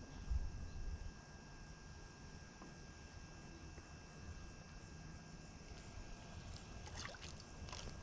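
Quiet lakeside ambience at a boat dock: faint water sounds with low wind rumble on the microphone in the first second, a faint steady high whine, and a few sharp clicks near the end.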